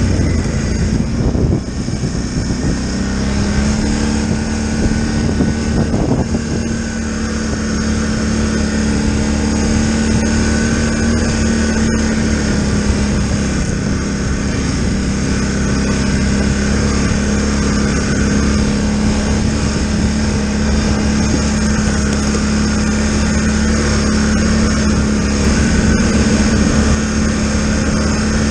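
Polaris Sportsman Highlifter 1000 ATV engine running at a steady speed, a steady drone whose pitch steps up slightly about three seconds in and then holds.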